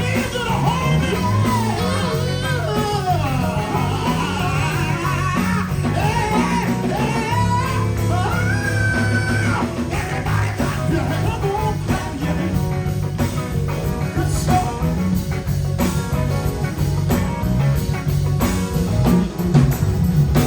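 A gospel group playing live: a singer's wavering, drawn-out melody over electric guitar, bass and drums. The voice is prominent for roughly the first half, then the band carries on with little singing.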